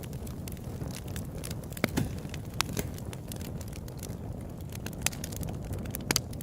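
Open-air campfire burning: a low steady rumble of flames with irregular sharp crackles and pops of burning wood, a few louder pops among them.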